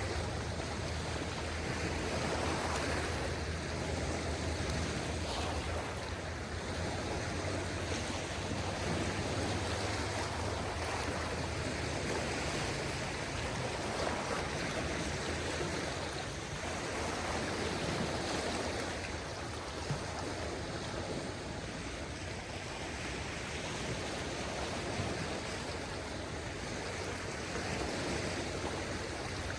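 Calm sea: small waves washing onto the shore as a steady hiss that swells and eases every few seconds, with a steady low rumble underneath.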